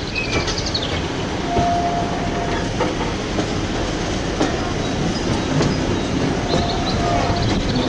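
A train running on the rails, wheels clicking over the rail joints with a steady rumble and brief faint squeals.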